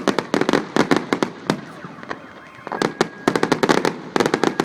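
Fireworks crackling: rapid strings of sharp pops in clusters, with a pause about a second and a half in before the pops start again.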